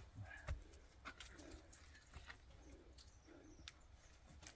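Near silence, with a bird's soft low calls repeating a few times and a few faint ticks.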